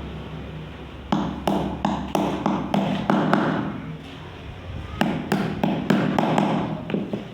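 Rapid sharp taps on bamboo, as in tapping or hammering a bamboo workpiece, about three strikes a second. They come in two runs with a short pause near the middle.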